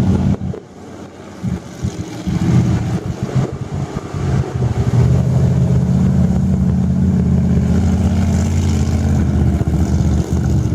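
Mud truck engine running hard, with a brief drop in level about a second in, then a steady, deep engine note from about two seconds on.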